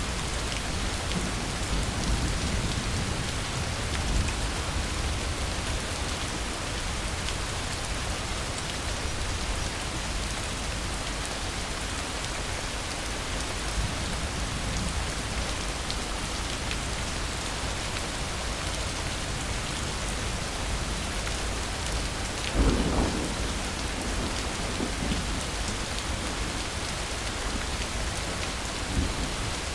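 Steady heavy rain falling, with thunder rumbling low in the first few seconds. A sharp, loud thunderclap comes about three-quarters of the way through, followed by a brief rumble, and a smaller one comes near the end.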